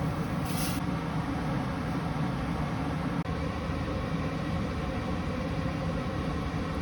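Steady low rumbling noise, like a running motor or vehicle, with a brief hiss about half a second in.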